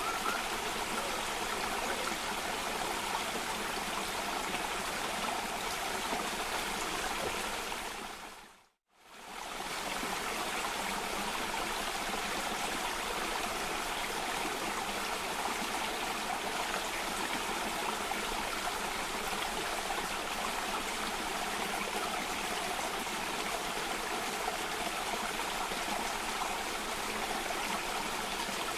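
Water rushing steadily down a small cascade. Just before nine seconds in, it fades briefly to silence and back, the seam where the recording loops.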